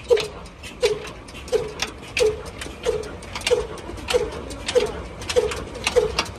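Old Indian desi single-cylinder diesel engine running slowly and evenly, with a beat about every two-thirds of a second, each beat a dull knock with a sharp click on top.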